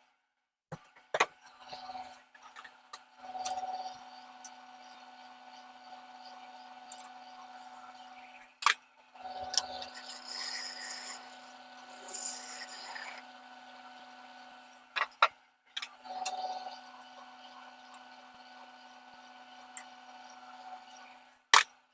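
Wood lathe running with a steady motor hum while a tool rubs and scrapes against the spinning wood, broken by several sharp clicks and a few abrupt dropouts.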